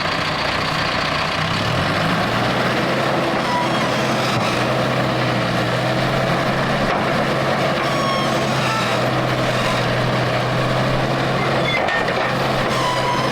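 Heavy machine's engine running hard. Its revs step up about two seconds in and then hold steady under load, as the machine works in deep mud.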